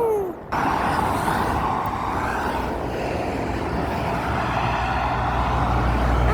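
Road traffic passing with steady tyre and engine noise, a heavy truck's deep engine rumble building in the second half.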